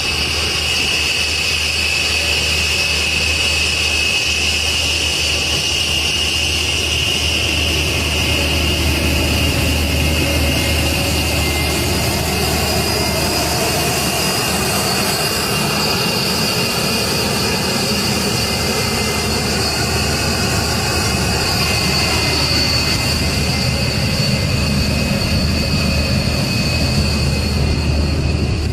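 Jet aircraft engine running steadily, a high whine over a low rumble.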